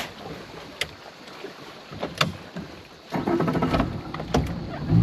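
A few sharp knocks and clicks around a small boat, then a boat motor starts up about three seconds in and runs steadily, getting louder near the end.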